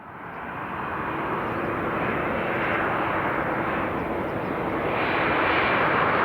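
Boeing 787-8 airliner coming in to land, the steady noise of its GEnx turbofan engines growing louder as it approaches.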